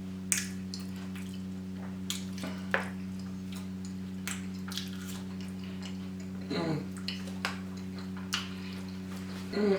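Close-miked eating: irregular wet smacks, clicks and chewing as a chili cheese burger and fries are eaten, with a short hum from the eater about two thirds of the way through. A steady low electrical hum sits underneath.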